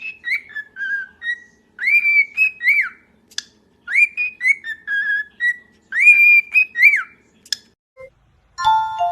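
A pet bird whistling the same short phrase of rising and falling whistles over and over, about once every two seconds. Near the end, chiming glockenspiel-like music starts.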